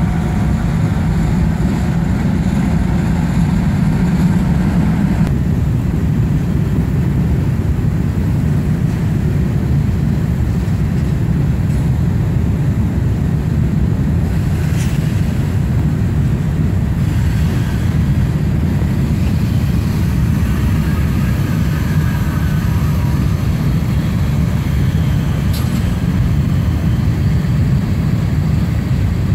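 Freight train rolling past: a steady, loud low rumble.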